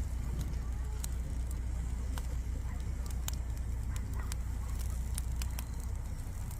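Wood campfire crackling: irregular sharp pops and snaps scattered throughout, over a steady low rumble.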